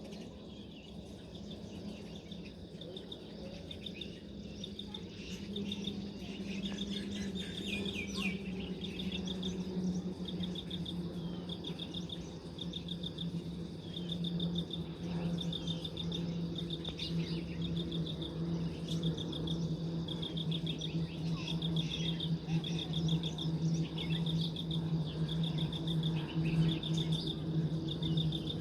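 Outdoor ambience: short trains of rapid high chirps repeat about once a second, over a steady low hum that grows louder toward the end.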